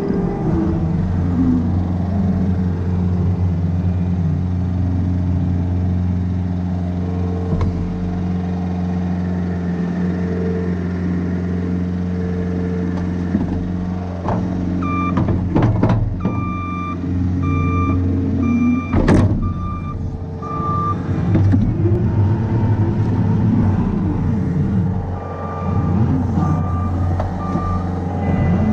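Heavy machine's diesel engine running steadily while its backup alarm beeps in two runs, one in the middle and one near the end. Several sharp metal clanks come in between, the loudest a little past the middle.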